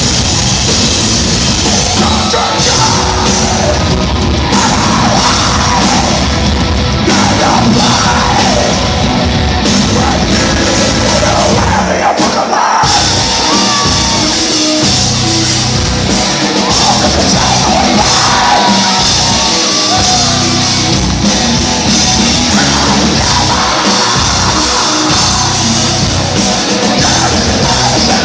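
Heavy metal band playing live, loud and dense, with drums and shouted, sung vocals over the instruments.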